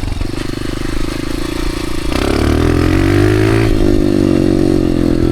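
Dirt bike engine running as the bike is ridden; about two seconds in the throttle opens and the engine note climbs for a second or so, then holds steady and louder.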